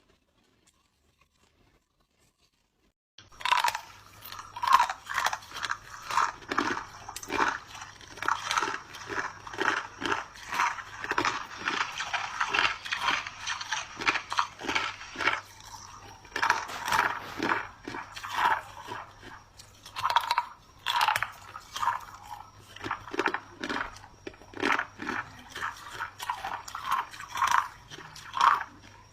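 Clear ice chunks being bitten and chewed close to the microphone: a rapid run of sharp, crisp crunches that starts suddenly about three seconds in and goes on with short pauses.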